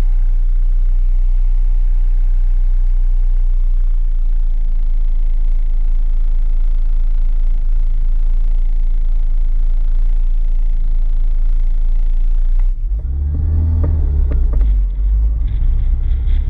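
MINI Cooper S engine, a supercharged four-cylinder, running with a steady low rumble at the start line, then revving about 13 seconds in as the car pulls away, the engine note rising.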